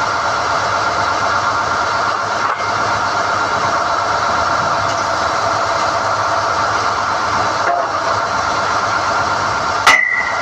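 SDH-1600 core drilling rig running steadily while hoisting NQ drill rods, a constant machine drone with a steady whine. Near the end comes one sharp metallic clank that rings on briefly.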